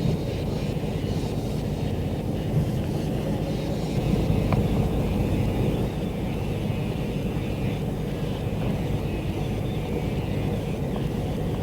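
Fishing boat's engine running steadily: a constant low hum of unchanging pitch.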